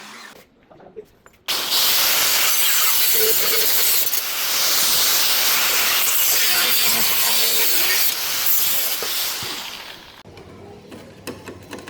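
A loud, steady hiss that starts suddenly and fades out after about eight seconds, with a few faint clicks afterwards.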